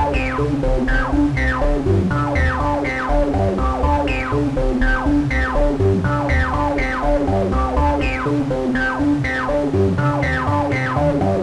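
Analogue Solutions Treadstone analogue monosynths playing a repeating sequenced pattern of short, plucky bass notes, a few per second, each with a quick downward filter sweep.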